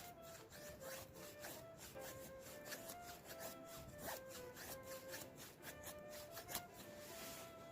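A knife shaving thin curls off a wooden stick to make a feather stick: repeated short scraping strokes, a few a second, over soft background music with a simple melody.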